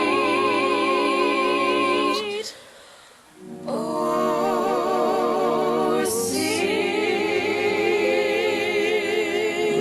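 One singer's voice multitracked into wordless vocal harmonies, held chords sung with vibrato over an instrumental backing. About two and a half seconds in the sound drops away briefly, then a new held chord starts.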